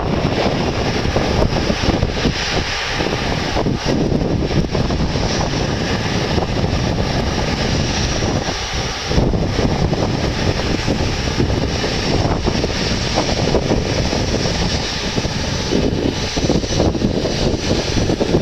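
Steady jet noise from a British Airways Airbus A380's Rolls-Royce Trent 900 engines, mixed with wind buffeting the microphone; the level wavers but there is no clear rise or fall.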